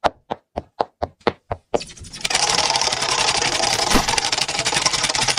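Seven sharp clicks, about four a second, then from just under two seconds in a dense, rapid clatter of ticks that runs on steadily.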